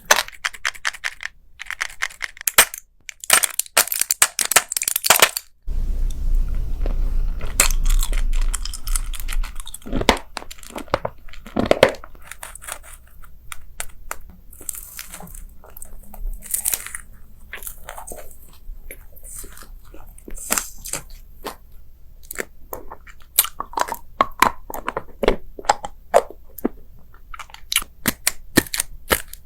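Close-miked eating: crisp crunching bites and chewing, a dense run of sharp crackles, with a stretch of low rumble a few seconds in.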